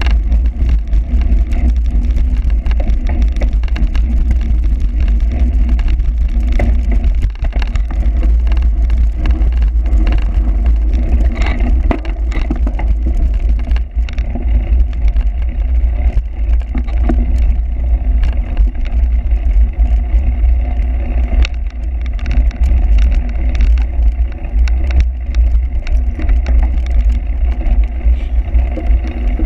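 Heavy wind rumble on the microphone with scattered clicks and rattles, typical of a bike-mounted camera on a cyclocross bike being ridden over rough ground.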